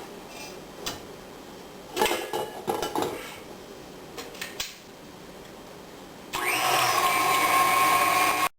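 A few light knocks and clicks of handling. Then, about six seconds in, an electric stand mixer starts and runs with a steady whine, whipping egg whites and cream of tartar at medium speed.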